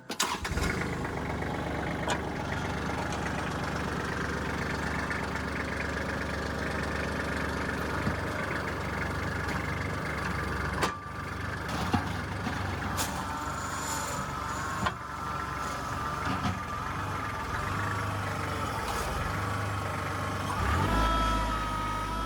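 Kubota L3400 tractor's diesel engine starting and then running steadily. About halfway in, a whining tone joins it and wavers in pitch.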